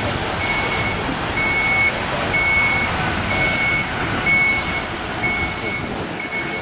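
Vehicle reversing alarm beeping on a single high tone, about once a second, over a constant rush of background noise.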